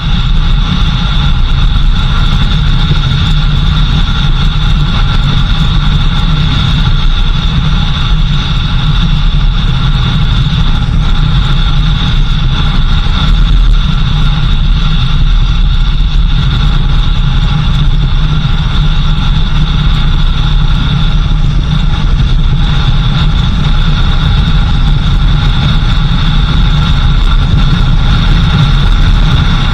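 Car engine running steadily as the vehicle drives, a low rumble with a steady whine above it.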